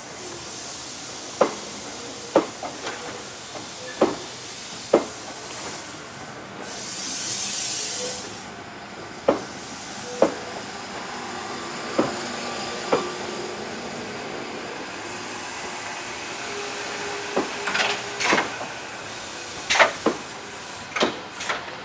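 Shizuoka Railway A3000 series electric train running, its wheels clicking sharply over rail joints at uneven intervals, several clicks coming in pairs about a second apart. A short burst of air hiss comes about seven seconds in.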